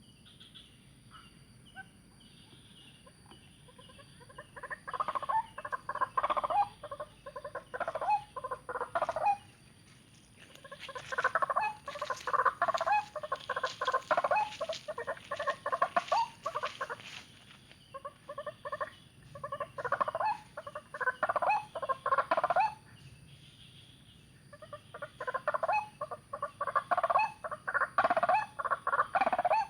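Young white-breasted waterhen calling in four bouts of fast, repeated notes, each bout several seconds long, with short pauses between.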